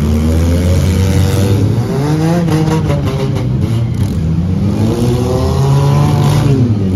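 Demolition derby cars' four-cylinder engines revving, several at once, their pitch climbing and falling over one another.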